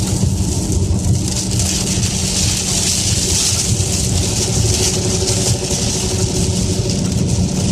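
Inside a car driving in heavy rain: a steady engine and road drone under a loud hiss of rain and spray off the wet road, which swells in the middle, with the windshield wipers running.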